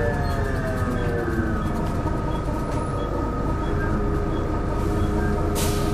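Volvo B7L single-deck bus heard from inside, its engine and drivetrain running with a low drone and a steady groaning whine, the groaning noise this bus is known for. A short hiss near the end.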